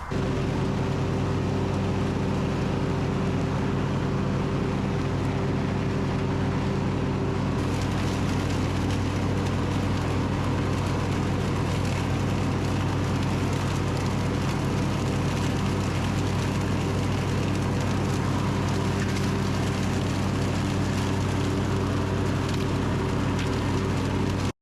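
Simplicity Regent lawn tractor running at a steady engine speed with the mower deck engaged, picking up leaves and plant debris into the bagger. The steady engine note cuts in abruptly and stops abruptly.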